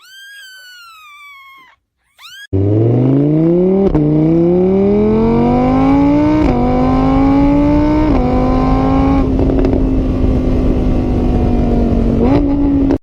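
A cat meows once. Then a car engine accelerates hard through the gears, its pitch climbing and dropping back at three gear changes before holding steady at high revs, and it cuts off suddenly.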